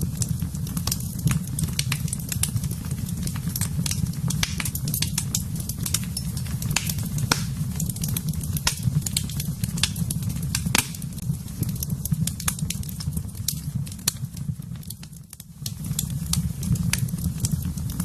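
Fire burning in a fireplace: frequent sharp crackles and pops over a steady low rumble of flames, which dips briefly about fifteen seconds in.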